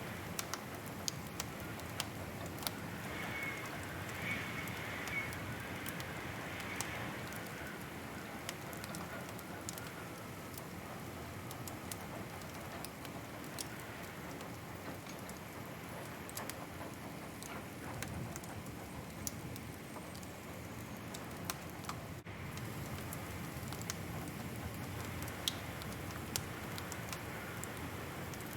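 Wood fire crackling: a steady hiss and rumble of burning with irregular sharp pops and snaps scattered throughout.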